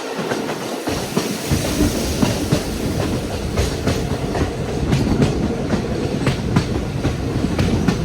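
Passenger train running, its wheels clacking irregularly over rail joints above a steady rumble. The low rumble deepens about a second and a half in.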